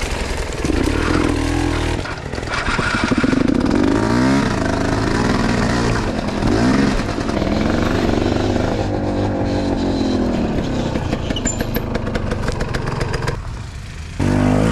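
Enduro motorcycle engine running and being revved, its pitch rising and falling several times; it quietens briefly near the end.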